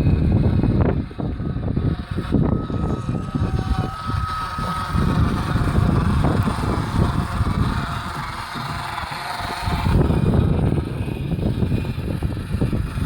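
Wind buffeting the microphone in uneven gusts, with a G-scale garden railway train running on its track underneath.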